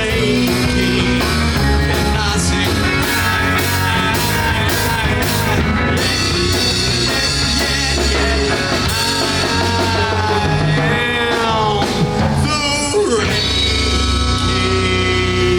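Live rock band playing an instrumental passage on electric guitar, bass and drum kit, with cymbal hits early on and bending guitar notes about ten to thirteen seconds in.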